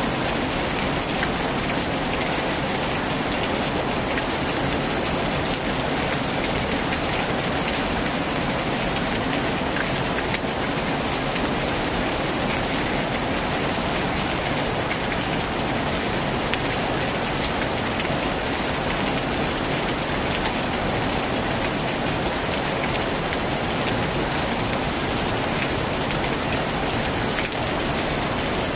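Heavy rain falling steadily on a tin roof, an even hiss with no breaks or thunder claps.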